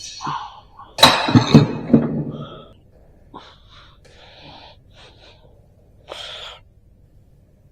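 A person breathing hard: a loud gasping breath about a second in that lasts about a second and a half, softer breaths after it, and a short breath near the end.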